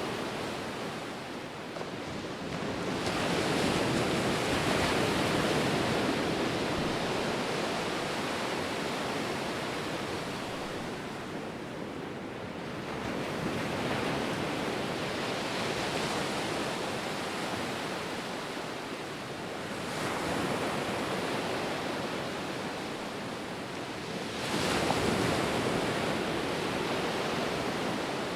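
Ocean surf: waves breaking and washing up the shore as a continuous rush that swells four times and ebbs between, the sharpest surge near the end.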